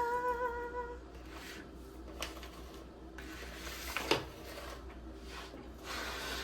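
Mac and cheese being spooned onto plates: soft scraping and squishing of the serving spoon, with a few light clicks of utensil on plate, the sharpest about four seconds in.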